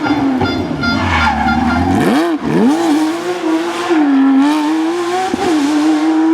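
Rally car engine running at high revs, its pitch dropping sharply and climbing back about two seconds in, then dipping briefly again a little past five seconds before holding steady.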